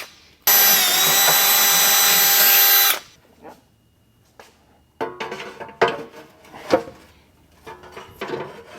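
Power drill with a 3/8-inch bit drilling through the van's cross member at high speed: it starts about half a second in, dips briefly in pitch, and stops after about two and a half seconds. Light knocks and clicks follow near the end.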